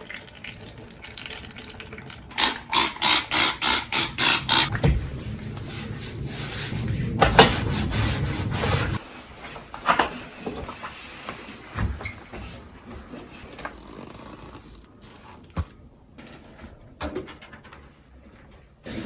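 Household cleaning sounds: a run of about nine quick, rhythmic strokes, then a rush of water-like noise and scattered knocks and clicks.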